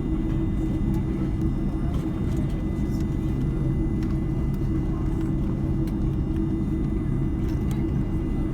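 Cabin noise inside an Airbus A310-304 on the ground: its GE CF6-80C2 turbofans run at low power as a steady rumble with a hum and a thin, high, steady whine over it.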